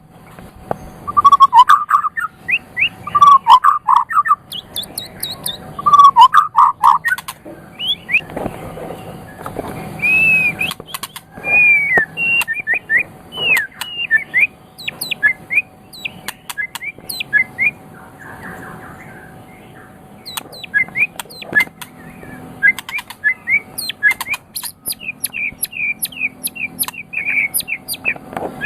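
White-rumped shama (murai batu) singing: a varied stream of loud whistled phrases and chirps. Lower, rich phrases repeat about every two to three seconds in the first part, followed by higher, quicker notes and a fast string of repeated notes near the end.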